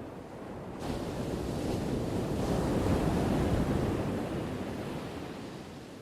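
Ocean wave breaking and washing in: a rushing surge that builds from about a second in, peaks near the middle, then fades away.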